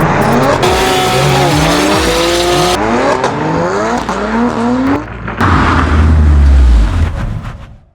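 Designed race-car effects: engine notes revving up again and again, with tyre squeal. About five and a half seconds in, a deep low rumble swells, then everything fades out quickly just before the end.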